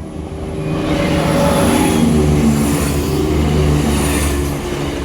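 Train passing over a level crossing: engine hum and rushing wheel-on-rail noise swell over the first second or two, stay loud through the middle, and ease near the end.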